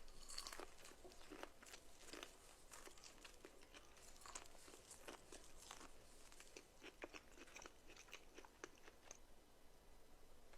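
Close-up ASMR eating sounds: crisp food being bitten and chewed, a quick, irregular run of crunches that thins out near the end.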